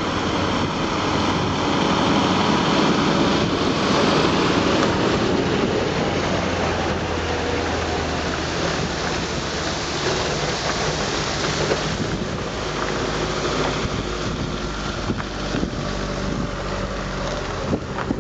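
Heavy haulage truck's diesel engine running steadily under strong wind noise on the microphone.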